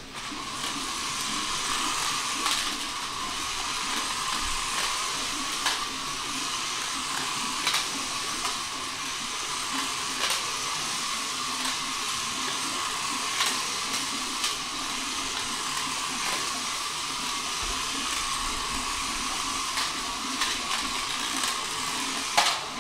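Small electric motor whirring steadily, with scattered sharp clicks and knocks throughout.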